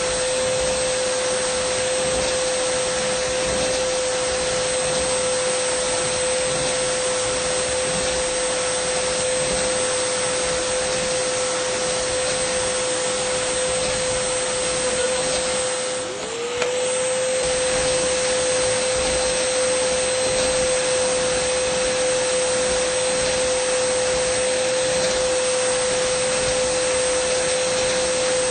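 Dyson vacuum cleaner running steadily, a loud airy rush with a high steady whine. About halfway through, the whine briefly sags in pitch and loudness, then climbs straight back up to speed.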